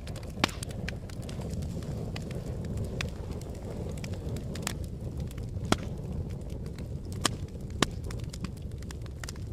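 Fire crackling: a steady low rumble of flames with scattered sharp snaps and a few louder pops.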